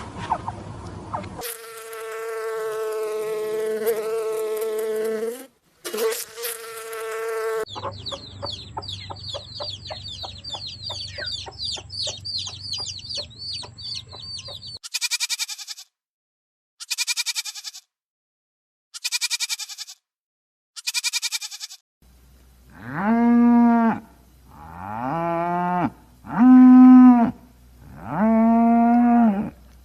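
A run of different animal calls, one after another: a long held call, then a fast stream of chirps, four short high calls, and finally four drawn-out farm-animal calls that rise and fall in pitch.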